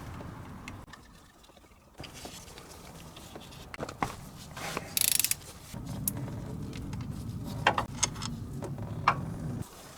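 Hand tools working on car parts: scattered metal clicks and clinks with some ratcheting and handling noise, a short hiss about five seconds in, and a steadier low rubbing noise in the second half cut by a few sharp clicks.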